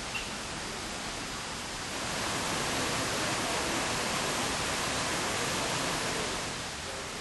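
Steady rushing noise of falling water from a garden waterfall, swelling slightly about two seconds in and easing back near the end.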